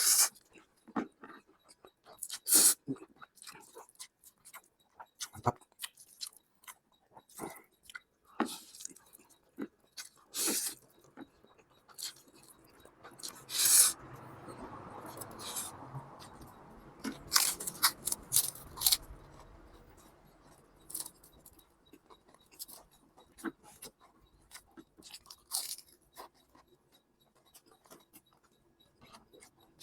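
Close-miked eating of instant noodles: irregular wet smacks and chewing clicks throughout, with a softer noisy stretch lasting several seconds midway.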